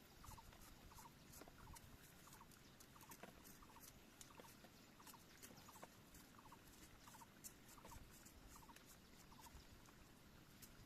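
Near silence, with faint short chirps repeating about twice a second, like a small animal calling.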